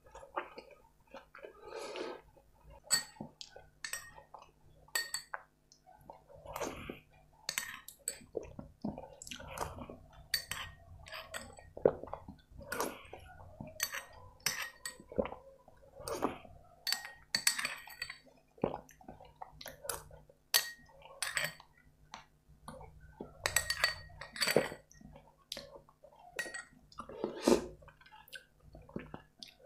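Close-miked eating: chewing and wet lip smacks of butter chicken and rice eaten by hand, in irregular sharp clicks, with a metal spoon clinking in a glass bowl of soup.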